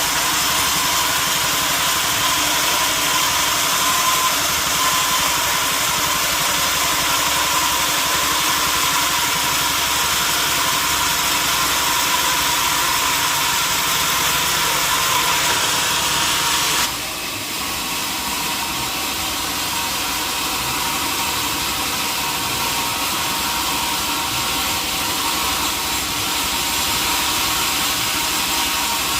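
Sawmill machinery running steadily, an engine-driven saw with a hiss and a hum. About two-thirds of the way through the sound changes abruptly and drops a little, then carries on.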